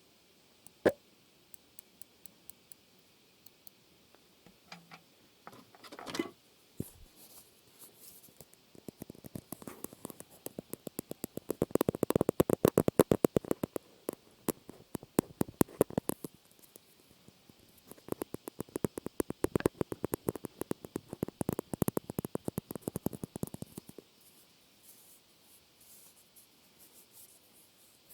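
Close-miked ASMR trigger sounds: a few scattered clicks, then two long runs of rapid small clicks and taps, the first about 9 to 16 seconds in and the second about 18 to 24 seconds in, then a few faint clicks again.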